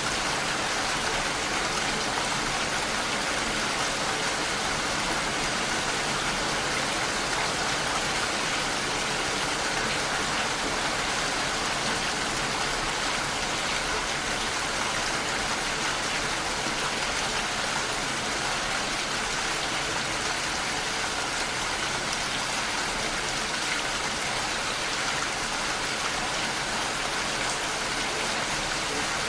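Steady rain pattering against a window pane.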